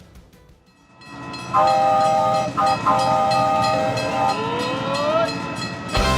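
Train sound effect: rail rumble fades in, then a multi-note train horn sounds a steady chord with a short break, followed by a tone sliding upward near the end.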